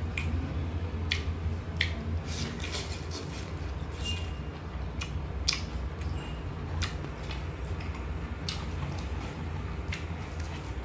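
Close-up mouth sounds of chewing cooked chicken liver: irregular wet clicks and smacks, several a second at times, over a steady low hum.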